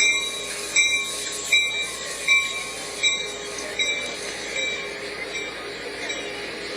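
Railway train moving through with squealing wheels, a high squeal repeating about every three-quarters of a second and fading away after about four seconds.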